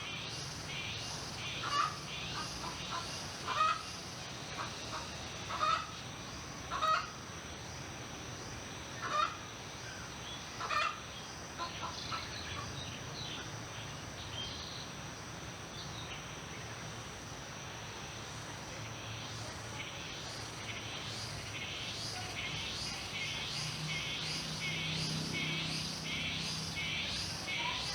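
Rural outdoor ambience: a bird gives short, loud calls every couple of seconds for the first ten seconds or so. Under it runs steady insect chirping, a rapid high pulsing about twice a second that grows louder toward the end, over a continuous high insect drone.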